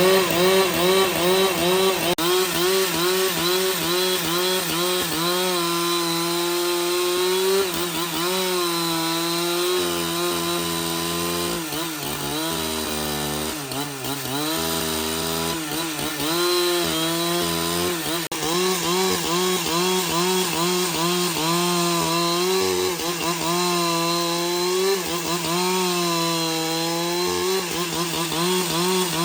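Petrol chainsaw running continuously while cutting through wood, its engine pitch dipping and rising over and over as the load on the chain changes.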